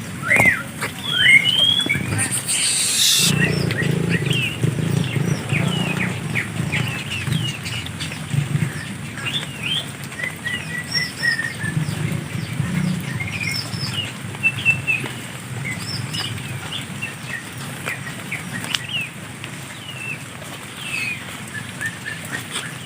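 Birds chirping over and over, each a short note sweeping quickly up or down. About two to three seconds in there is a brief loud rustle, followed by several seconds of low rustling.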